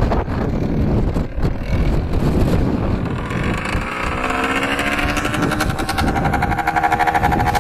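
Yamaha DT125R's single-cylinder two-stroke engine running as the dirt bike rides up and passes close by. Its buzzing note comes in about four seconds in and climbs in pitch as the bike draws near.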